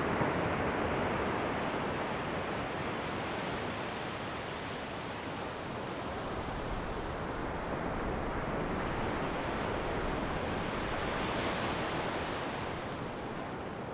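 Ocean waves breaking on the shore, a steady wash of surf that swells near the start and again about eleven seconds in.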